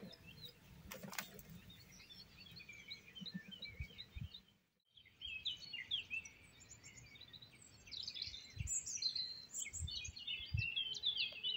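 Small birds chirping and twittering, many short high calls, denser in the second half. The sound cuts out briefly about five seconds in, and a few soft low thumps come near the end.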